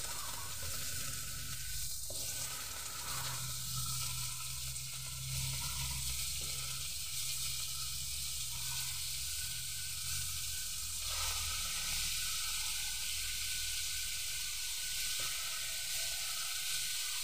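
Chicken pieces sizzling in hot oil with sautéed ginger, garlic and onion in a wok as they are added one at a time.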